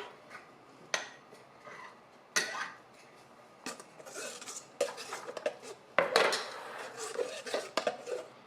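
A spoon stirring sourdough starter into water and fruit juice in a mixing bowl, with sharp clinks and knocks against the bowl and scraping in between.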